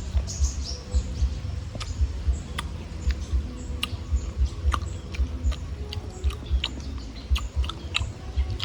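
Irregular crunching clicks of cashews being chewed, over dense low thumps, with short bird chirps here and there.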